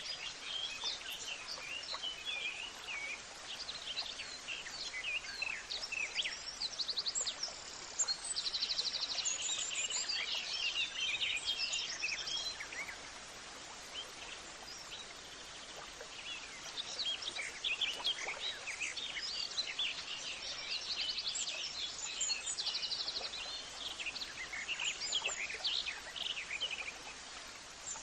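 Many small birds chirping and singing together over a steady hiss, with quick trills now and then. The calling thickens in two spells, once in the first half and again in the second.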